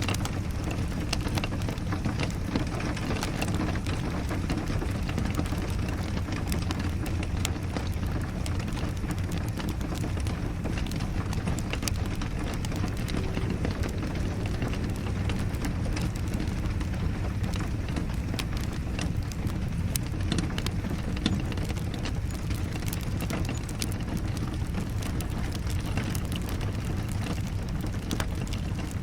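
Steady rain with a low rumble underneath, mixed with scattered sharp crackles and pops of a wood fire.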